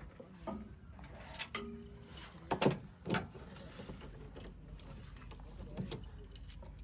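Diesel engine of heavy earthmoving machinery running with a steady low rumble, with several sharp knocks and clanks over it, the strongest about two and a half and three seconds in.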